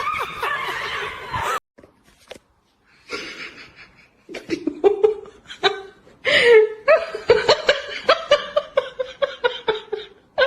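A person laughing hard in a long run of quick, repeated bursts, starting about four seconds in after a sudden cut from a noisy stretch and a brief silence.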